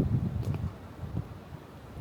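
Wind buffeting the microphone in low, irregular gusts, strong at the start and easing off about half a second in.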